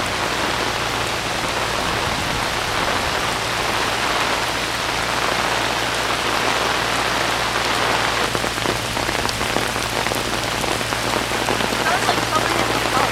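Steady heavy rain hissing down during a hurricane, with the low, steady hum of an electric generator running underneath.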